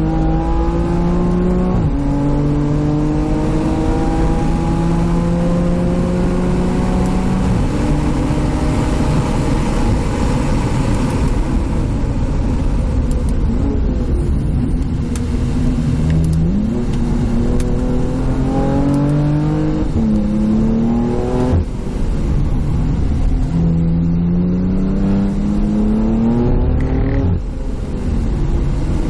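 Car engine under hard acceleration on a race circuit, its pitch climbing and then dropping at each gear change, easing off briefly for corners and pulling up through the gears again.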